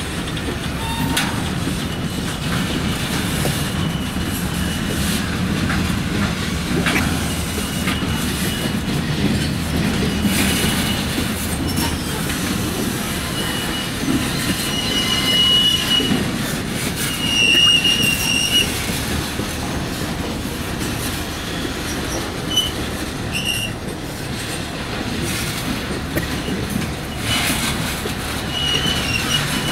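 Freight train moving slowly over yard track: a steady low rumble with scattered knocks from wheels over rail joints, and the wheels squealing in short high-pitched squeals several times, loudest in the middle.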